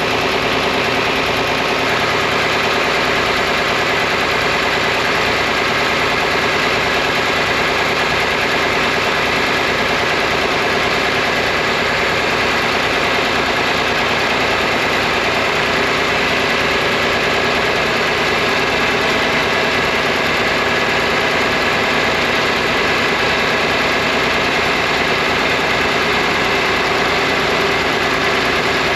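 Tractor engines idling steadily, with an even low throb and no change in speed.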